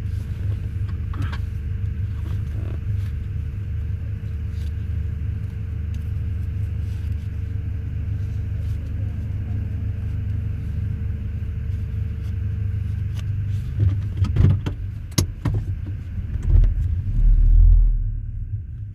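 Car engine idling, heard from inside the cabin as a steady low rumble. A few sharp clicks and knocks come about three-quarters of the way through, and a heavy low thump near the end is the loudest sound.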